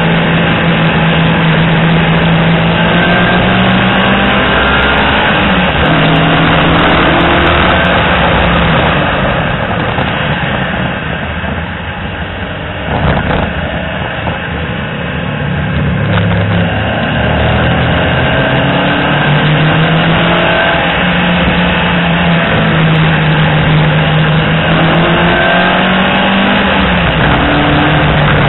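Peugeot 205 GTI 1.6's four-cylinder engine driven hard, its pitch climbing through the gears and dropping back at each shift. About a third of the way in it eases off and goes quieter for several seconds, then pulls hard again.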